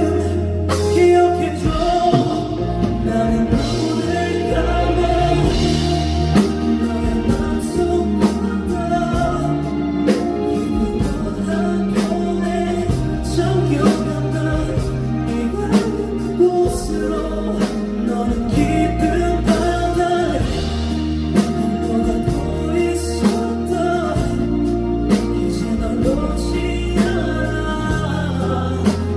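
A song performed live: a singer's voice over a band with a steady drum beat and bass.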